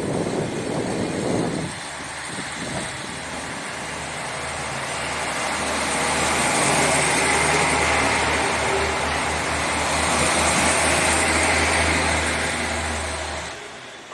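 Diesel engines of a two-car KiHa 40 series DMU running under power as the train pulls out, with a low steady engine drone that grows louder, then drops away sharply near the end.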